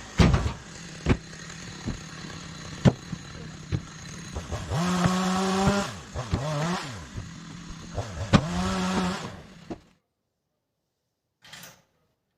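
Chainsaw engine revving up in short bursts of about a second and dropping back to a lower speed between them, with sharp knocks and cracks of wood. It stops about ten seconds in, and a brief burst of noise follows.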